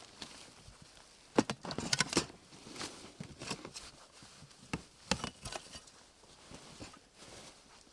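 Irregular sharp knocks and clicks, clustered about one and a half seconds in and again about five seconds in, over a faint background hiss.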